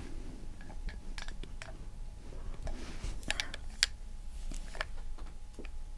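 Quiet, scattered light clicks and taps from handling things at the table, irregularly spaced, over a faint low hum.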